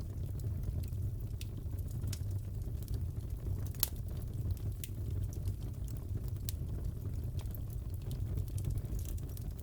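Crackling fireplace: a steady low rumble of the fire with irregular sharp pops and crackles, one louder pop about four seconds in.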